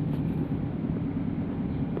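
Argo Parahyangan passenger train running: a steady, low noise.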